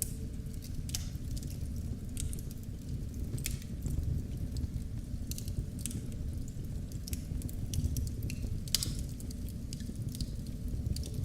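Wood fire in a fireplace crackling, with scattered sharp pops over a steady low rumble of burning, one louder pop near the end.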